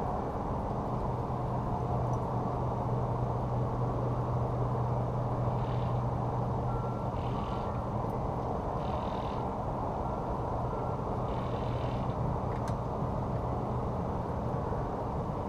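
An engine running steadily with a constant low drone, and a few brief higher sounds over it partway through.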